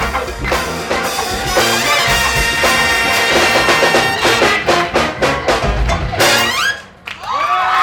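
A military big band of trumpets, trombones, saxophones and drums plays the last bars of a funk tune and cuts off on a final chord about seven seconds in. The crowd then bursts into cheering and whooping.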